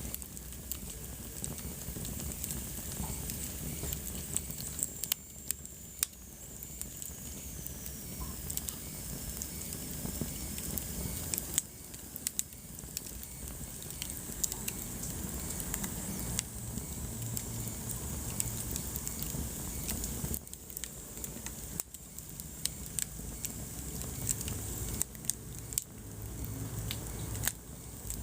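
Wood fire burning in a fireplace: a steady low rumble and hiss with frequent sharp crackles and pops, and a faint high whistle that slides down in pitch a few seconds in.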